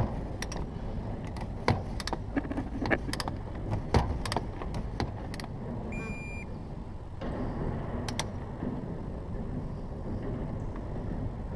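Ratchet torque wrench clicking irregularly with small metal clinks as the new spin-on oil filter is torqued down; the clicks thin out about five seconds in, with one more about eight seconds in.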